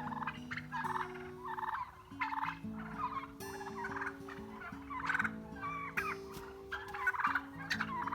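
A flock of heritage turkeys calling, a steady run of short chirping calls at about two a second.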